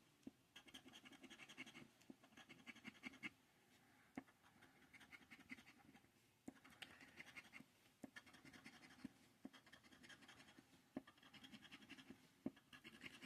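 Faint scratching of a scratch-off lottery ticket's coating, in short runs of quick strokes with brief pauses and a few light taps between them.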